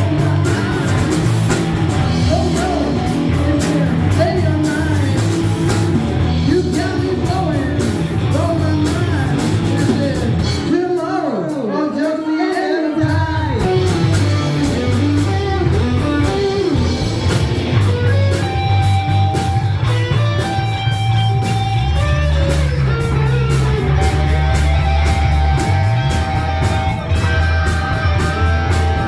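Rock band playing, led by electric guitar with bending lead lines over bass and drums. About eleven seconds in, the bass and drums drop out for about two seconds, leaving the guitar bending notes alone, then the band comes back in.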